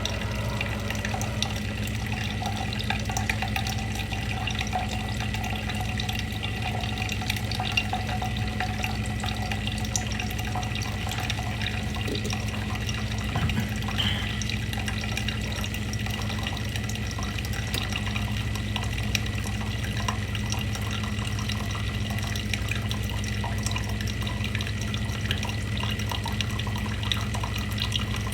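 Water trickling and dripping without a break, over a steady low hum and a faint high tone.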